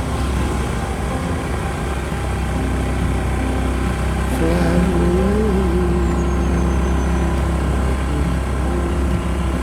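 Motorbike engine running steadily under way, with heavy low wind rumble on the microphone.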